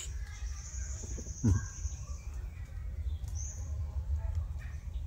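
Birds chirping high over a steady low rumble. About a second and a half in comes one short low sound falling in pitch, the loudest thing heard.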